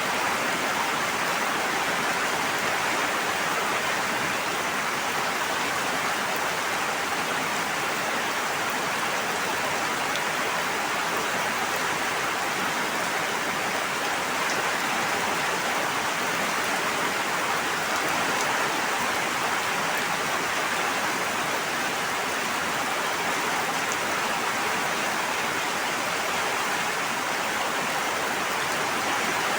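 Steady, even rushing of water with no breaks or single events.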